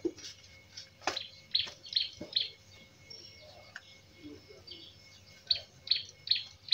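A bird chirping: short, high chirps in quick runs, three about a second and a half in and four more near the end.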